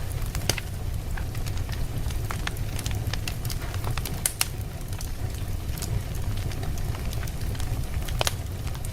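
Wood fire burning in a fireplace: a steady low rumble of flame with irregular sharp crackles and pops from the burning logs, a few louder pops standing out.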